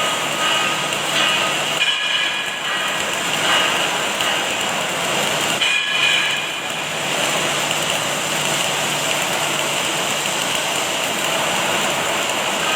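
Steady, dense crackling hiss of an automatic arc-welding machine at work, with faint high tones coming and going during the first half.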